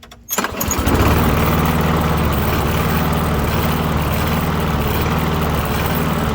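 Lawn mower engine starting on the pull and running steadily on its restart, after the carburetor has been cleaned and the engine primed. It catches suddenly about a third of a second in.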